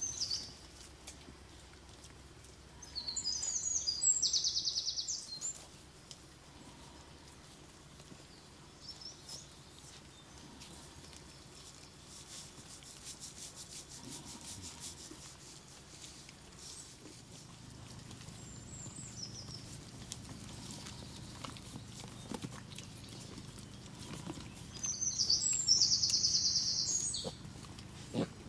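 A songbird singing two high, rapid trilling phrases, each about two seconds long, one early and one near the end, with a few short chirps between.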